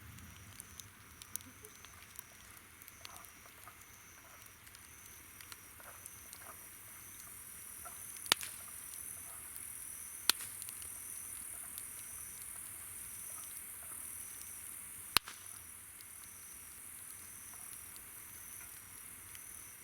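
Wood campfire crackling, with three sharp loud pops about eight, ten and fifteen seconds in. Insects call steadily behind it, one chirping in a regular high pulse about one and a half times a second over a high continuous hum of others.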